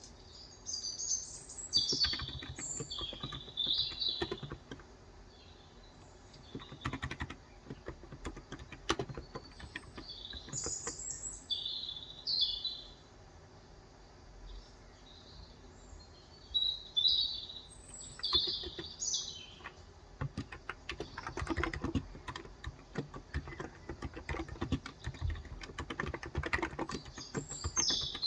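Typing on a Cox Endeavor electro-capacitive (contactless) 35 g tenkeyless keyboard: irregular runs of key presses, busiest in the last third. A small bird chirps in short high phrases over it, in several separate bouts.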